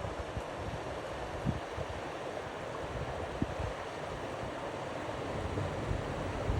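Steady rushing of river water, with low wind buffeting on the microphone.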